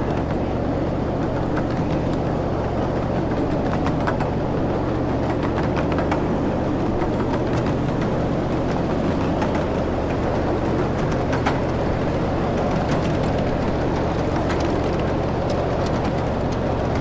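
Small park railroad train running steadily, heard from aboard: a constant low engine hum over a rumble, with scattered light clicks.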